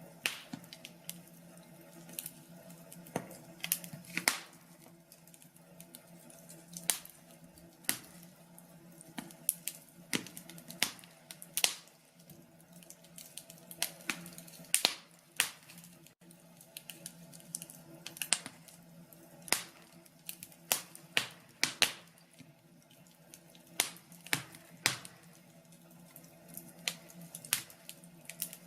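Wood fire crackling in a fireplace: irregular sharp pops and snaps, some in quick clusters, over a faint steady low hum.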